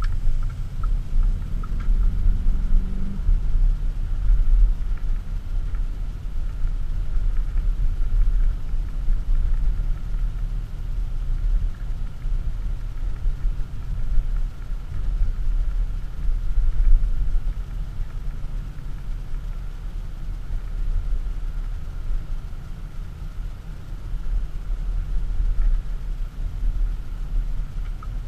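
Audi SQ7's 4.0 TDI V8 diesel heard from inside the cabin, its note rising over the first few seconds as the car accelerates from a slow turn. It then settles into a steady low rumble of engine and tyres while cruising.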